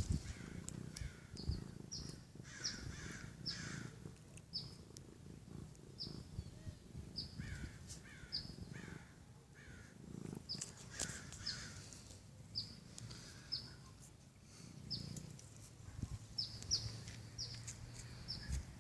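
A bird calling over and over in short, high, falling chirps, about one or two a second, over a low rumbling background.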